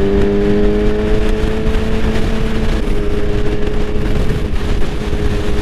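2005 Yamaha R6 inline-four engine running at freeway speed under heavy wind rush. Its steady hum rises slightly in pitch, then eases off about three seconds in.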